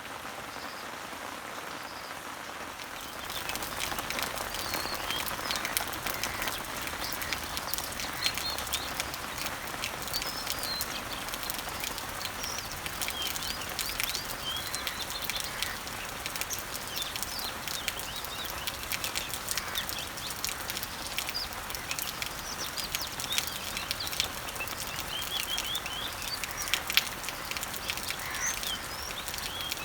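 Rain falling on leaves and trees, a steady patter of drops that grows louder about three seconds in, with birds chirping throughout.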